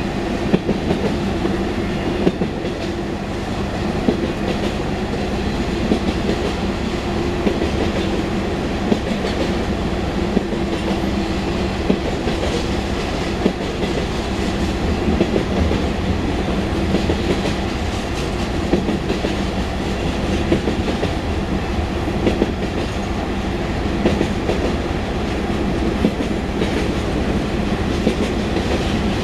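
Union Pacific mixed freight train rolling past: a steady rumble with a low hum and sharp clicks every second or two as the wheels cross rail joints.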